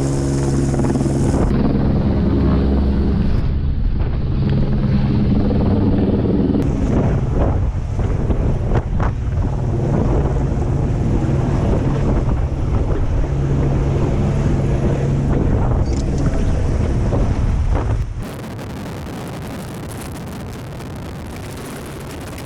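Helicopter hovering close overhead: a loud, steady rotor and engine drone with rotor wash buffeting the microphone. About 18 seconds in it cuts off suddenly to a quieter, even rushing noise.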